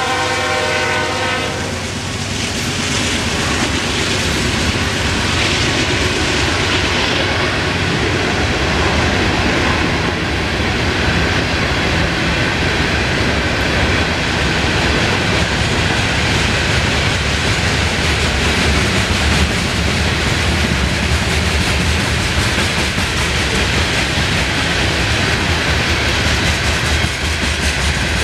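Freight train of open hopper cars rolling past close by, with a steady rumble and clatter of wheels on the rails. A diesel locomotive's multi-tone horn sounds at the very start and cuts off about a second and a half in.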